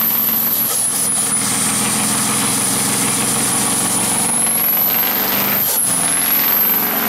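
Truck engine running loud and steady, with a thin high whine that rises and falls.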